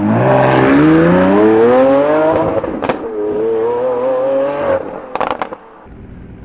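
A supercar engine accelerating hard, its pitch climbing through one gear, a sharp crack at the upshift about three seconds in, then pulling again in the next gear. A quick volley of exhaust pops and crackles follows as it lifts off, and the sound drops away suddenly near the end.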